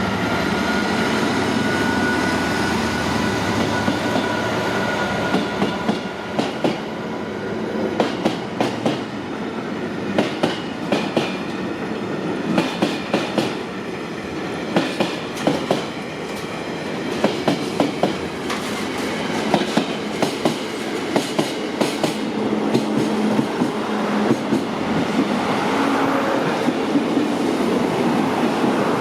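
Container freight train passing over a level crossing: wagon wheels clicking over the rail joints in quick pairs and groups, over a steady rumble. A thin high whine sounds in the first few seconds and fades.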